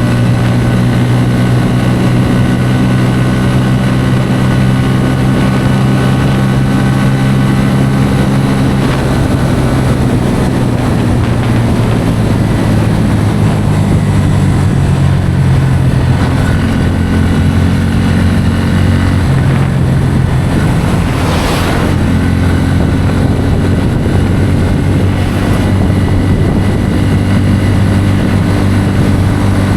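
Bajaj Pulsar N160's single-cylinder engine running at highway speed, heard from the rider's seat; its note drops and rises a few times as engine speed changes. About two-thirds of the way in comes a brief rush of noise that swells and fades.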